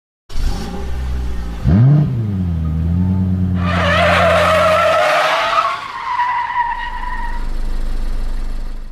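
A car engine running, with a quick rev about a second and a half in, then tyres squealing for several seconds. The sound cuts off suddenly at the end.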